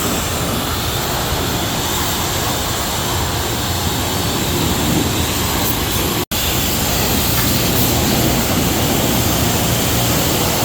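Steady rushing hiss of high-pressure water spraying over a semi-truck during a truck wash, cutting out for a split second about six seconds in.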